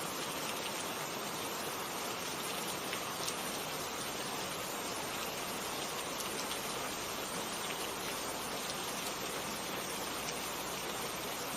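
Steady rain falling: an even hiss of many drops, with a few single drop ticks standing out now and then.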